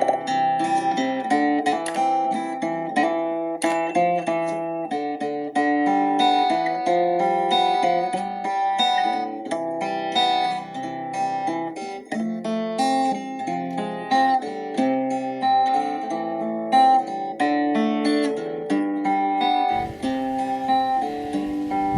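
Instrumental worship music on acoustic guitar: a steady flow of plucked notes and chords. Near the end the sound changes, with a fuller low range coming in.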